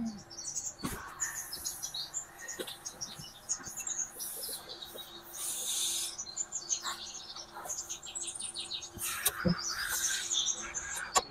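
Small birds chirping in quick, repeated fluttering calls, with a few sharp clicks and knocks from hand tools.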